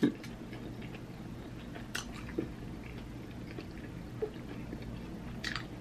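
Faint chewing and mouth sounds of someone eating, with a few small, sharp clicks.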